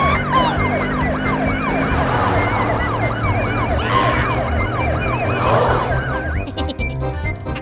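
Police siren yelping in quick rising-and-falling sweeps, about two a second, over background music. The siren stops about six seconds in and a quick clicking beat carries on.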